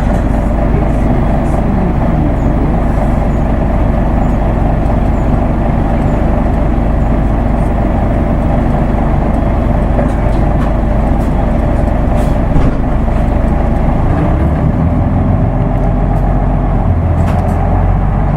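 Isuzu Erga Mio manual-transmission city bus on the move: a steady diesel engine drone with road noise. Its low note shifts about two thirds of the way through and again near the end, as the engine load or revs change, and there is a single brief knock shortly before the first shift.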